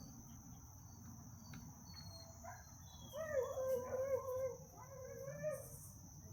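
A drawn-out, wavering animal cry lasting a little under three seconds, starting about three seconds in, over the steady high drone of insects.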